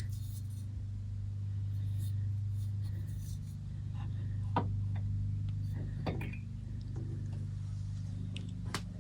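Steady low hum with a few faint, light clicks and knocks.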